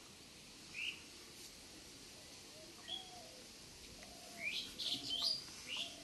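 Small birds chirping outdoors: single short high chirps about a second in and at three seconds, then a quicker run of chirps near the end, with fainter lower calls between them.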